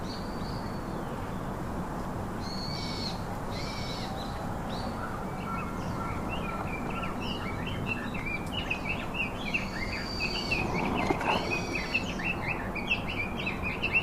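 Wild birds calling and chirping over a steady background hum, with a rapid run of short chirps in the second half.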